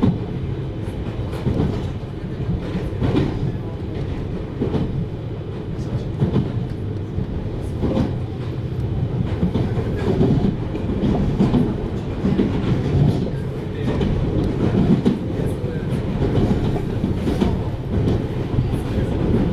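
733 series electric multiple unit running along the track: a steady low rumble of wheels on rail, with wheels clacking over rail joints every second or two.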